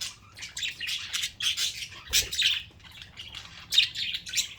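Pet budgerigars squawking and chirping: a quick run of short, harsh, high-pitched calls with brief pauses between them.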